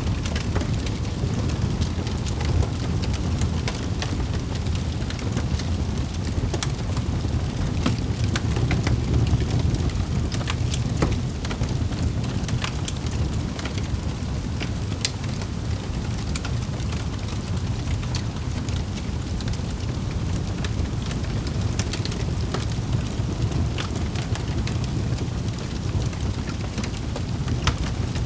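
Wood fire in a fireplace crackling, with a steady low rumble under frequent small scattered pops.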